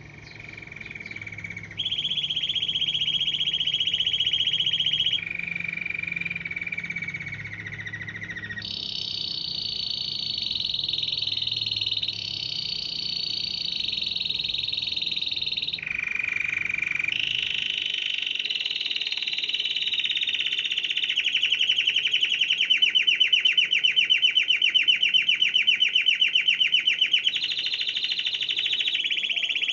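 Canary singing a long rolling song: phrases of rapidly repeated notes, each held for a few seconds before jumping abruptly to a new pitch, turning in the second half into a loud pulsing trill. A low hum sits under the first half and stops about halfway through.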